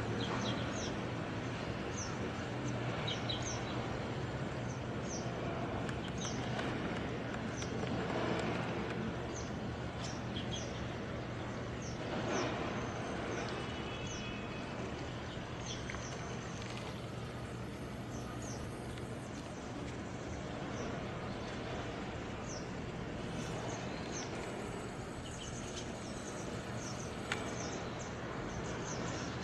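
A small bird chirping over steady outdoor background noise with a low hum. The chirps are short and high-pitched and repeat about once a second.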